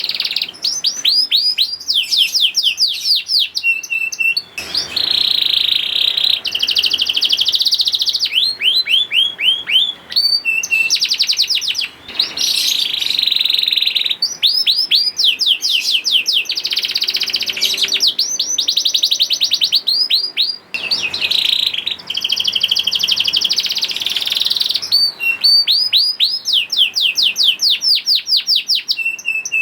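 Young domestic canary singing a continuous high song of fast trills: rapid runs of downward-sweeping notes alternating with buzzy rolls, broken only by brief pauses a few times.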